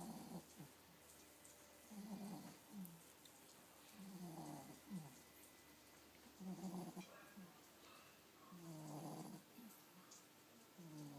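Miniature pinscher snoring softly, a low snore with each breath about every two seconds, five times. Each breath is a longer snore followed by a brief shorter one.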